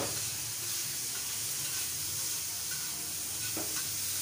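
Chopped tomatoes sizzling steadily on a hot flat griddle (tawa) as they are pushed around with metal tongs.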